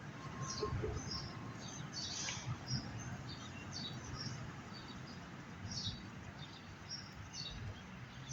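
Songbirds chirping and singing in short repeated phrases, over a steady low background rumble.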